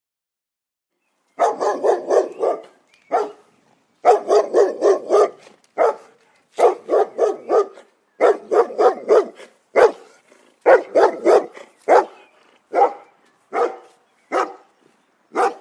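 A dog barking in quick bursts of four to six barks, with single barks between the bursts. From about two thirds of the way through, it gives single barks roughly one a second.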